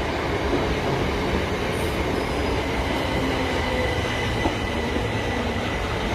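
Class 377 Electrostar electric multiple unit moving along the platform, a steady rumble of the train with a thin, steady high squeal from the wheels.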